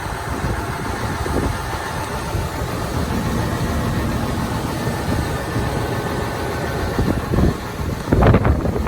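John Deere 6920 tractor's six-cylinder diesel engine idling steadily, with gusts of wind buffeting the microphone near the end.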